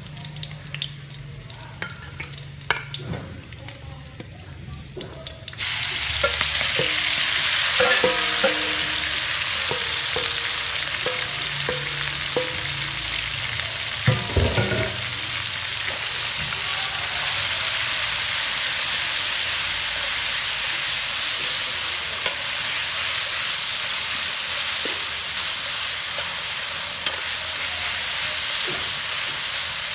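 Garlic frying quietly in oil in a metal wok, then a sudden loud sizzle about five seconds in as chicken pieces and shredded lemongrass go into the hot oil. The sizzle holds steady while a metal spatula stirs the wok, with scattered knocks and scrapes.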